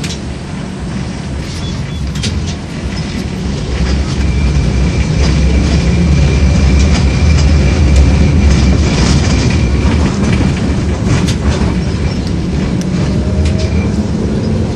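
LVS-86K articulated tram running on its rails, heard from inside the car: a steady low rumble and motor hum that grows louder about four seconds in, with a faint high whine and scattered clicks from the wheels on the track.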